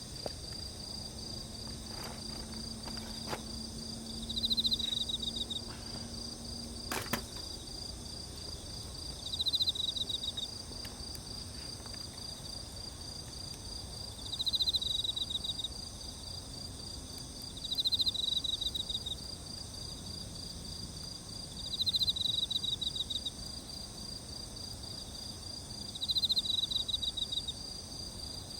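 Insects chirping steadily in chorus, with a louder pulsed trill about a second long repeating every four to five seconds, typical of crickets or katydids. A few sharp pops from the campfire in the first seven seconds.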